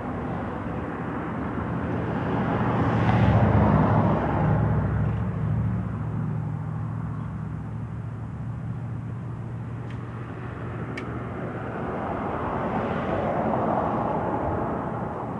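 A motor vehicle's engine passes by, its low hum rising and fading, loudest about three seconds in, then swelling again near the end. Two faint sharp clicks come about ten and eleven seconds in.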